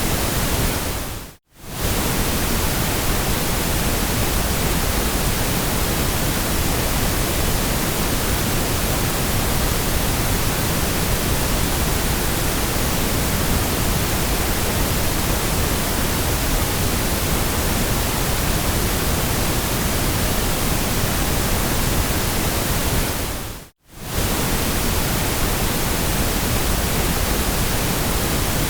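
Steady white noise, an even hiss across all pitches. It briefly fades out to near silence and back in twice, about a second and a half in and again near the end.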